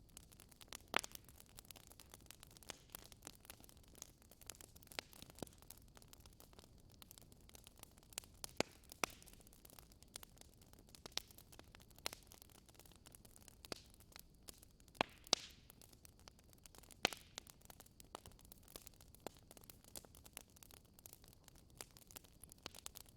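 Faint wood fire crackling, with irregular sharp pops and snaps over a soft steady hiss.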